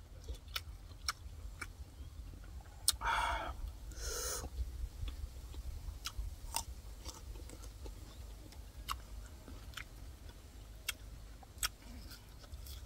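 A man chewing raw leafy greens and herbs dipped in chili sauce, close to the microphone: wet mouth clicks and crunching scattered throughout, with two longer, louder bites about three and four seconds in.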